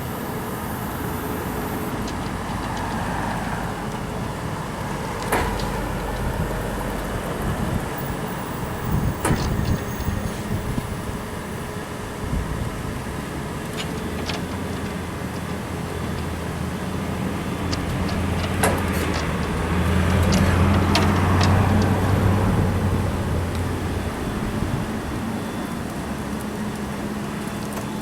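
Bucket truck's 6.8L V10 gasoline engine running steadily, growing louder for a stretch past the middle before settling back, with several sharp clicks and knocks along the way.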